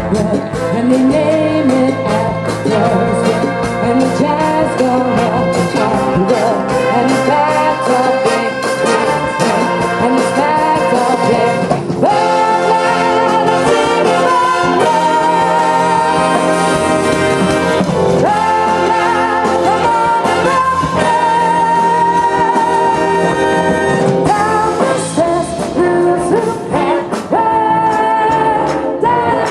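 Big band playing live: a brass section of trumpets and trombones over a rhythm section with a steady drum beat, with a singer's voice. The band is heard as a crowd would hear it at an open-air concert.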